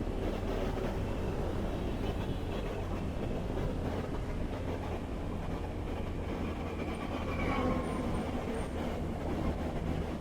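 Honda CBR650R motorcycle cruising on the highway: steady engine and road rumble mixed with wind noise.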